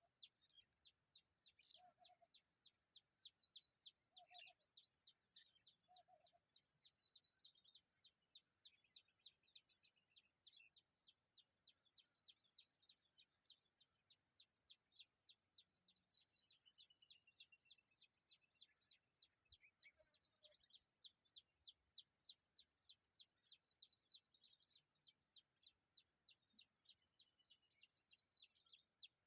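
Faint, rapid high bird chirps repeating steadily, about four a second, with short twittering runs over a steady high-pitched hiss.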